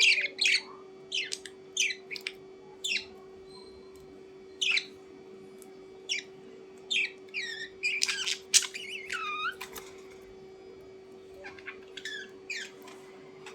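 A bird calling in short, sharp chirps and squawks, with a quick run of falling calls past the middle and quieter calls near the end. A faint steady hum runs underneath.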